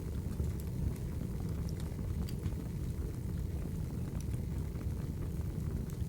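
Crackling wood fire: a steady low rumble of burning with scattered sharp pops and crackles.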